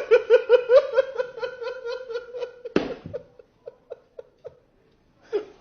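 High-pitched giggling: a fast run of even 'ha' pulses, about five a second, on one steady pitch, trailing off about three seconds in. A sharp click comes near the middle.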